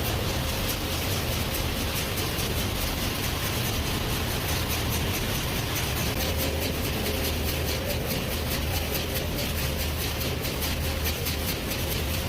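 Factory machinery running steadily: a low hum overlaid with a fast, even clatter.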